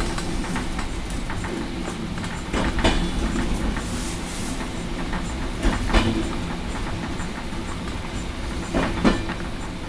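Passenger train coach running along the track, heard from inside the last carriage: a steady rumble with pairs of sharp clacks about every three seconds as the wheels cross rail joints.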